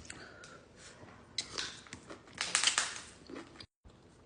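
Close-miked eating sounds: chewing and biting food, made up of short wet clicks and crunches that come thickest about one and a half and two and a half seconds in. A split-second gap of dead silence falls near the end.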